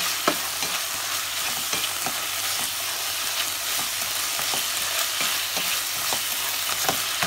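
Chopped tofu, bean sprouts, carrots and meat sizzling steadily as they are sautéed in a pan, stirred with a spatula that gives irregular scrapes and taps against the pan.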